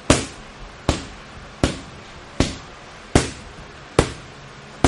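Boxing gloves landing punches on a target in a steady rhythm, seven sharp smacks about 0.8 seconds apart.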